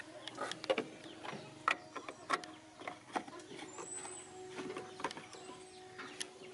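A run of irregular clicks and light knocks, a few sharper than the rest, with brief faint high chirps in the background.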